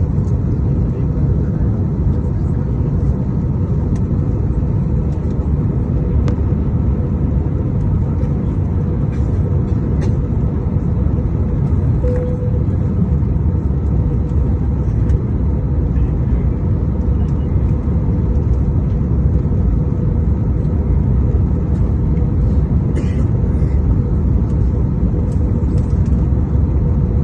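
Steady low rumble of an aircraft cabin in flight, with a faint steady hum running through it.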